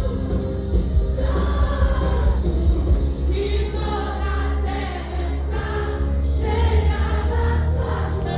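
Music with a choir of voices singing held notes over a steady low bass.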